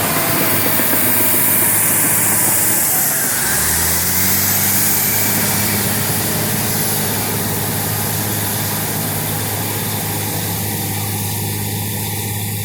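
Cat D8N bulldozer's six-cylinder diesel engine running steadily while the machine works, its engine note stepping up about three and a half seconds in.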